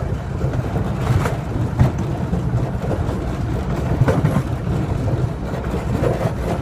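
Miniature ride-on train running along its track, heard from aboard: a steady low rumble with a few short knocks.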